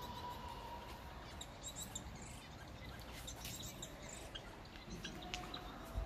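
Small cage birds giving many short, high chirps and peeps over a low, steady background rumble, with a brief click near the end.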